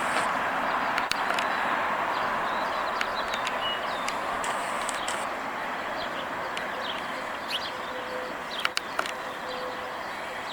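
Steady traffic noise from a passing vehicle that slowly fades away, with small birds chirping over it and a few sharp clicks near the end.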